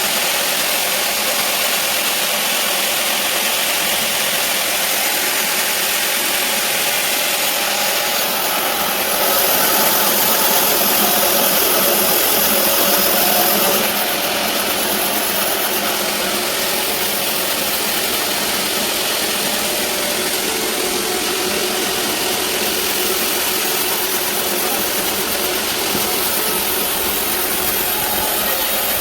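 Sawmill band saw running steadily, with a louder, brighter stretch of about five seconds in the middle.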